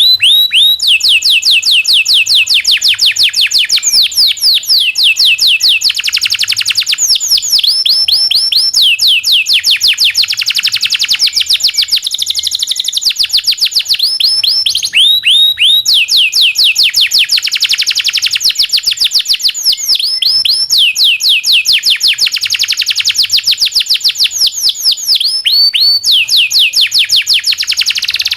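Domestic canary singing a long, unbroken song of rapid rolling trills: fast runs of downward-sweeping chirps that switch from one trill pattern to the next every few seconds.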